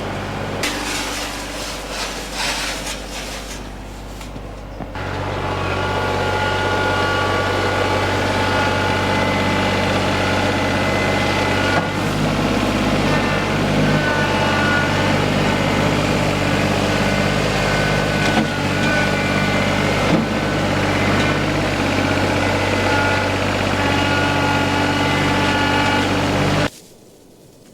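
Farm tractor engine running steady, stepping up in speed about five seconds in and holding there, then stopping abruptly near the end.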